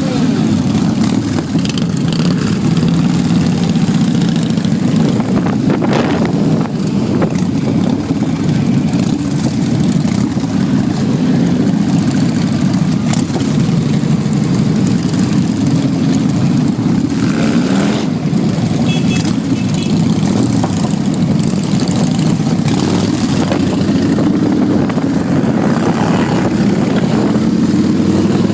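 Motorcycle engines running steadily in a continuous low drone that holds an even level throughout.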